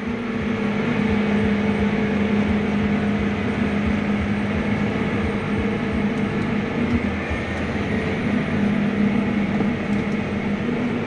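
Large vehicle engine running at a steady speed while travelling: a constant, even hum with no changes in pitch.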